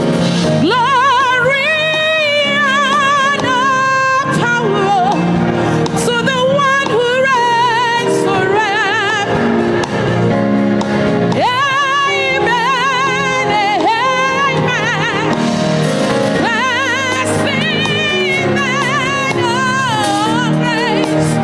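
Live gospel worship music: a woman singing long, wavering held notes over the band's steady accompaniment.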